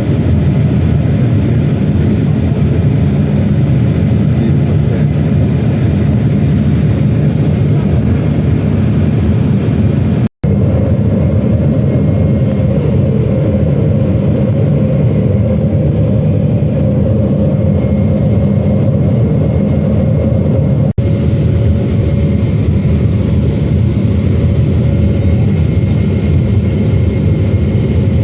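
Steady cabin drone of a Boeing 777-300ER in flight, the roar of its GE90 jet engines and airflow heard from inside the cabin. It cuts out sharply for a moment about ten seconds in, and dips briefly again about twenty-one seconds in.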